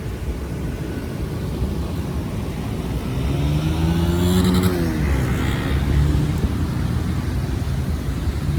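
A motor vehicle passes close by. Its engine note rises as it approaches and drops as it goes past, about four to five seconds in, over a steady low rumble.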